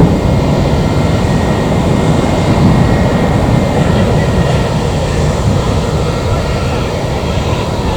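JetBlue Airbus A321's jet engines running with a loud, steady rumble.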